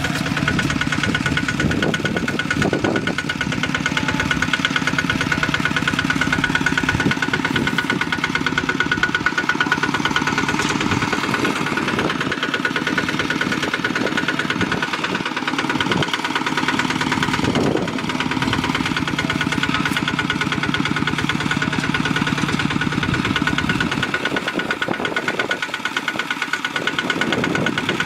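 Bulldozer's diesel engine running steadily close by, with a fast even pulse and a steady high whine.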